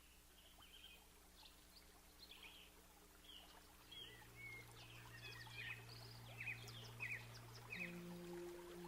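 Faint chirps of small birds, getting busier as it goes on, with a low steady hum coming in about halfway and another steady tone joining near the end.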